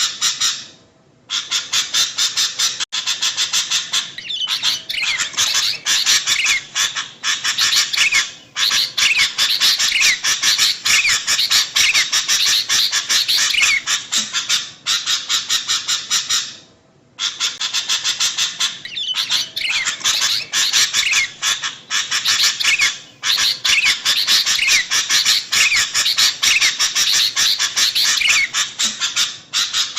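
Sooty-headed bulbuls (kutilang) calling in a noisy chatter of rapid, short notes, several a second, some sweeping down in pitch, broken by a few brief pauses.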